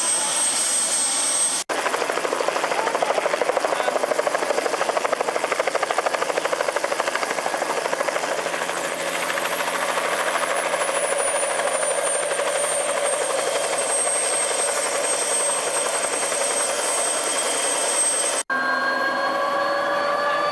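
Helicopter running: the rotor's fast, even blade beat under a high turbine whine that slides slightly lower in pitch partway through. Two abrupt cuts break it, about two seconds in and near the end; after the second a different engine-like sound with slowly rising tones takes over.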